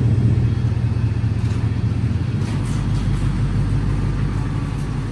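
Ford SVT Lightning pickup's V8 engine running, a steady low rumble.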